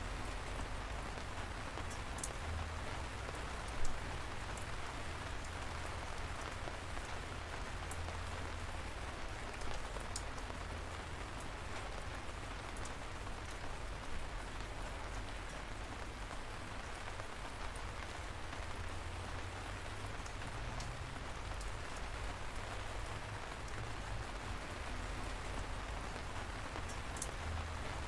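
Steady light rain falling, with a continuous even patter, scattered sharper drops and a low rumble underneath.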